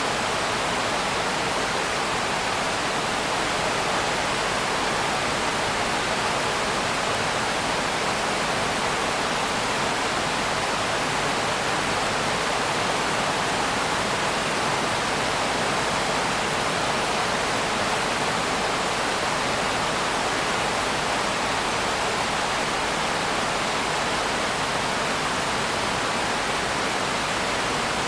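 Steady rain, an even hiss without distinct drops, rhythm or thunder.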